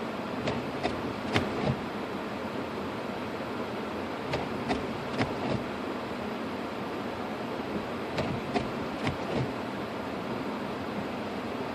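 Steady road and driving noise inside a 2006 Lexus IS250 AWD moving through snow, with small clusters of sharp clicks or knocks recurring about every four seconds.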